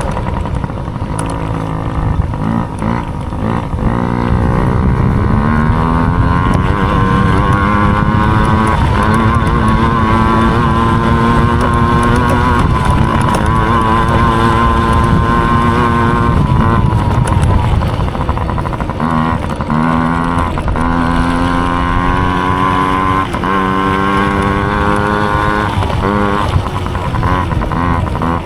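Mini dirt bike engine racing under throttle. Its pitch climbs and holds high, falls away about halfway through, then climbs again in several short steps that break off and restart.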